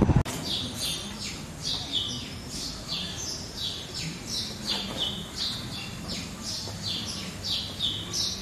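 Small birds chirping steadily: short, quick down-slurred chirps, a few each second.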